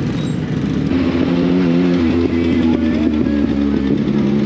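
Classic motorcycle engines running steadily, their pitch shifting a little now and then.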